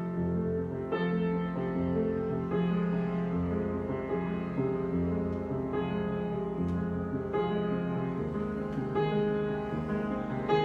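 Solo piano improvisation: slow, sustained chords over a low bass note, changing about every one and a half seconds.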